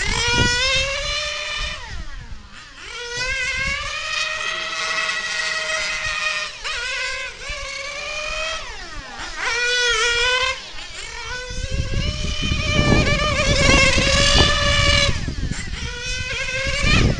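Small nitro glow engine of a 1/8-scale Mugen MRX6 on-road RC car (Novarossi nine-port) running at high revs as the car laps. Its high-pitched whine climbs on the straights and drops sharply for the corners, over and over. Low wind rumble on the microphone in the second half.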